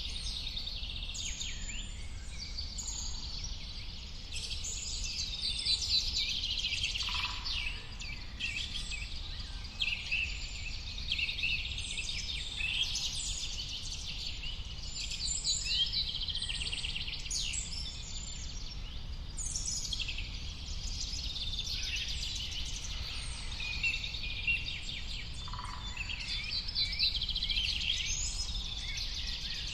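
A chorus of many birds singing and chirping at once, dense overlapping high trills and calls with no break, over a low steady rumble.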